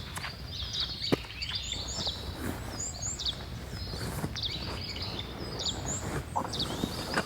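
Small birds chirping: many short, high chirps, several a second, over a steady low rumble, with a few sharp clicks and knocks scattered through.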